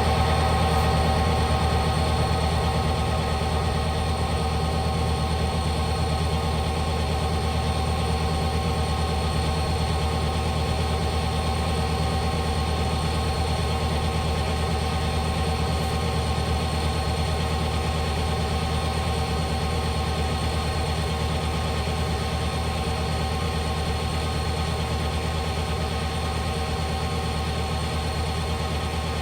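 Train running on the BNSF line: a steady low diesel rumble with several steady whining tones above it, easing off very slightly over the half minute.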